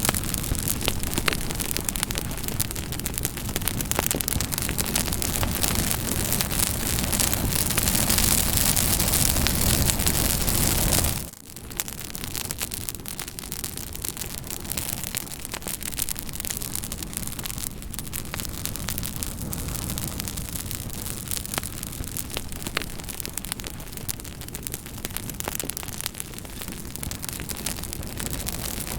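Campfire crackling: a steady hiss of burning wood with frequent small sharp pops. About eleven seconds in it drops suddenly to a much quieter level, then carries on crackling.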